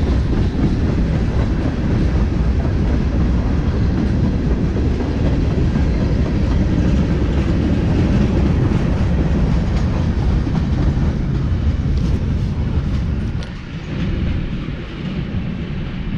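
A train passing, its cars rolling along the track with a steady rumble; the noise eases about three-quarters of the way through.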